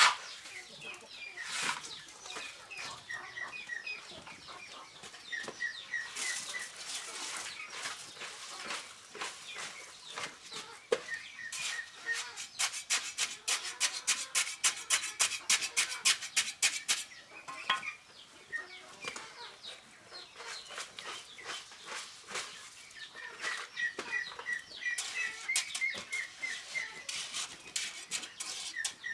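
Chickens cheeping in short, repeated high notes, over bouts of fast rhythmic tapping or scraping at several strokes a second, busiest in the middle.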